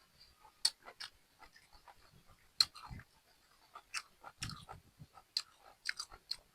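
A person chewing a mouthful of stir-fried asparagus close to the microphone: irregular mouth clicks and soft crunches.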